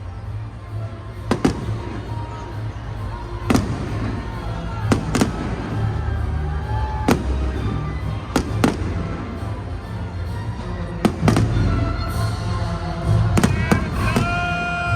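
Aerial fireworks going off, a sharp bang every second or so over a steady low rumble, with music playing underneath.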